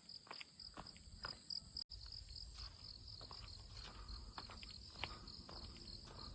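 Insects chirping steadily in a high, pulsing trill, with irregular footsteps on a forest path. The sound cuts out for an instant about two seconds in.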